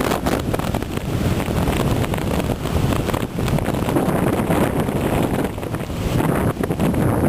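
Strong storm wind buffeting the microphone in gusts, over the noise of rough sea surf.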